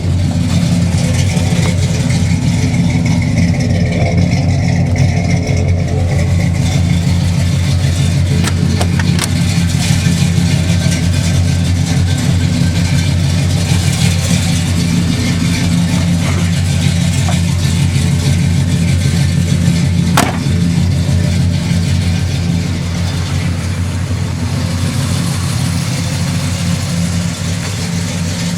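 Chevrolet 396 big-block V8 idling steadily through its exhaust, a deep even rumble. A single sharp click about twenty seconds in.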